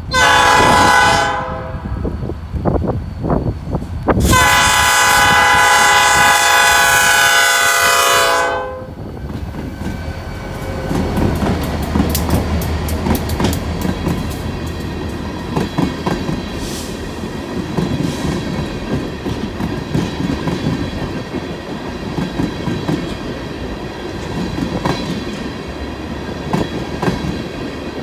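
Freight locomotive horn sounding a multi-note chord: a short blast, then a long one of about four seconds, at a grade crossing. Then the train passes close by, a steady rumble with wheels clicking over the rails as a string of loaded tank cars rolls past.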